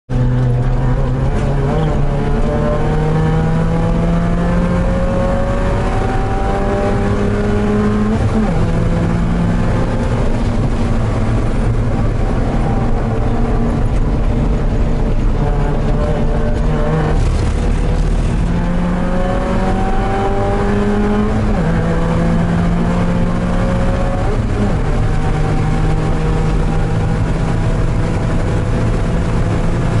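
Porsche 968 race car's 3.0-litre four-cylinder engine under full throttle, heard from inside the cabin, its pitch climbing through each gear and dropping back at the shifts several times.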